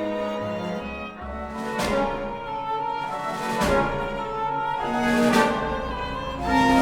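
Opera orchestra playing a purely instrumental passage: held chords from strings and brass, punctuated by strong struck accents about every one and a half to two seconds.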